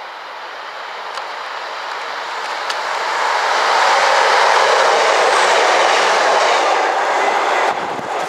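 A train passing by, its rushing noise growing louder as it approaches and staying loud for a few seconds, then dropping sharply near the end as it goes past.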